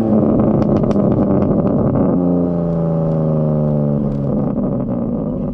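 BMW M4 Competition's twin-turbo inline-six, fitted with downpipes and high-flow cats, coming off a hard rev with a burst of exhaust crackles and pops for about two seconds, then running on with its pitch slowly falling as revs drop, with a few more pops near the end.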